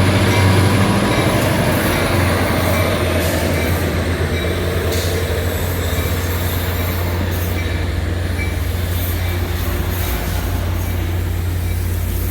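Train running on the rails: a steady, loud rumble with a faint thin high tone that slowly falls in pitch.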